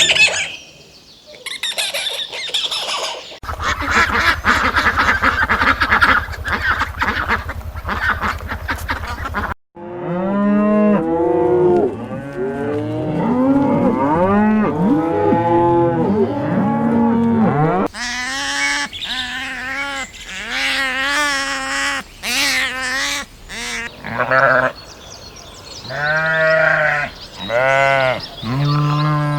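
A run of farm animal calls. A buzzing, noisy stretch comes first. About ten seconds in it gives way to many overlapping honking calls, and from about eighteen seconds on there are repeated calls that sound like cattle mooing.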